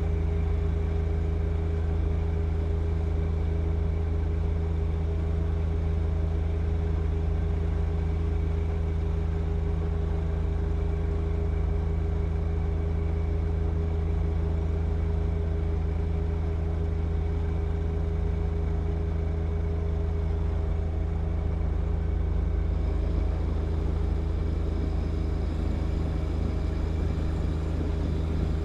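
John Deere 1025R compact tractor's three-cylinder diesel engine running at a steady speed, a constant low drone with no change in revs.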